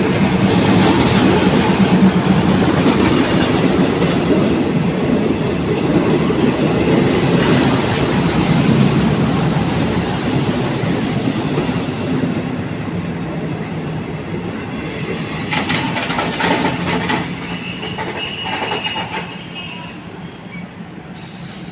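Diesel railcar train running close by on the track, its rumble and rail noise loudest at first and easing off. High metallic wheel squeals come in the second half.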